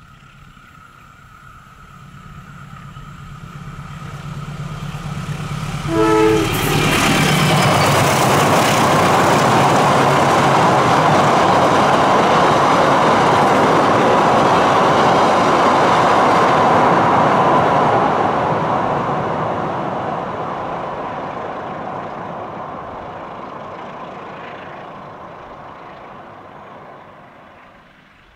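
Indonesian KAI diesel-electric locomotive hauling a long passenger train: its engine drone grows as it approaches, it sounds one short horn blast about six seconds in, then the wheels and coaches rumble loudly across a steel truss bridge for about ten seconds before the sound fades slowly away.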